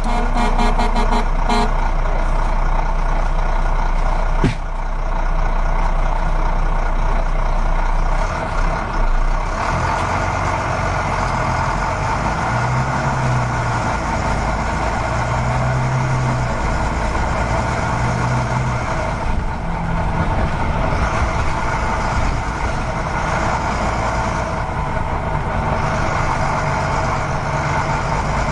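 Truck engine running steadily throughout. In the first second or so there is a rapid ticking, and about four and a half seconds in there is a single click.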